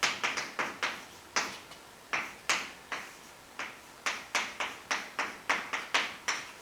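Irregular sharp taps and clicks, about twenty of them, from a pen or chalk striking a writing surface as an equation is written out.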